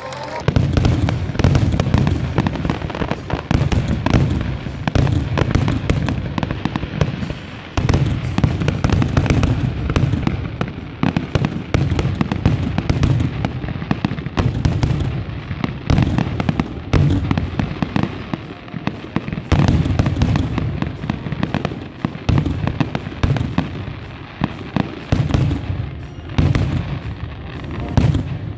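Aerial fireworks display: shells bursting in rapid succession, many sharp bangs one after another with deep booms underneath, keeping up throughout.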